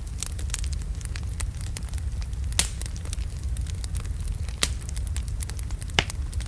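Wood fire of large logs burning in a fireplace: a steady low rumble of flame with frequent sharp crackles and pops, three of them louder, about two and a half, four and a half and six seconds in.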